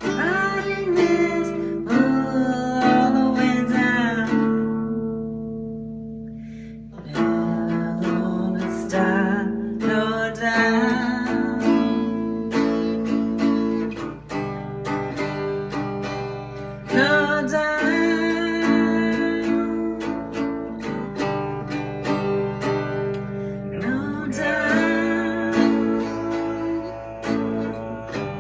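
Acoustic guitar music: strummed chords with a wavering lead melody line over them, coming in phrases that start anew every few seconds.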